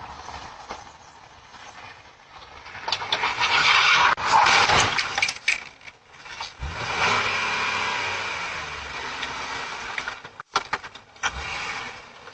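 Motor vehicle noise, loudest in a noisy stretch about three to five seconds in, then steadier running, with a few sharp clicks near the end.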